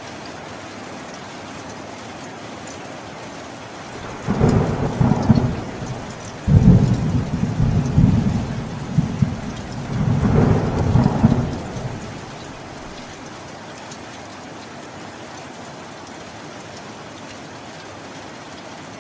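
Steady rain with a rolling rumble of thunder that starts about four seconds in, swells in several surges and dies away after about eight seconds.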